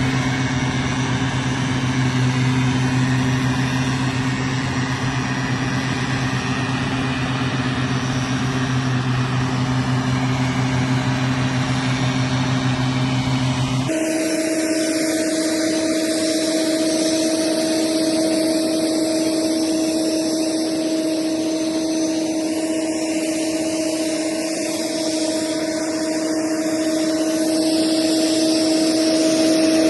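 Farm machinery engine running steadily with a low hum. About halfway through the sound changes abruptly to a different, higher-pitched steady machine drone.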